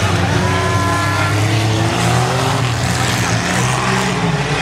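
Demolition derby cars' engines running loud and steady on the track. A brief high squeal rises over them about half a second in.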